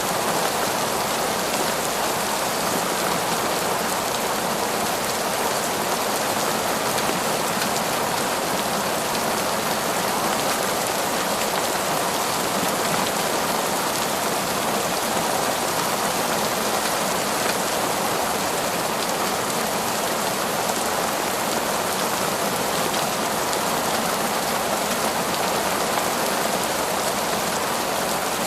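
Heavy, torrential rain falling steadily, a dense even patter with no breaks or thunder.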